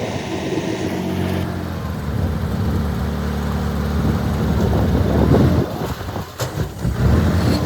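Heavy earthmoving machine's diesel engine running and working under load, its level rising and falling, with a rougher, uneven stretch near the end.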